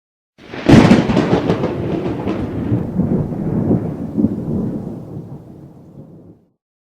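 A thunderclap: a sudden sharp crack, then rumbling that dies away over about six seconds.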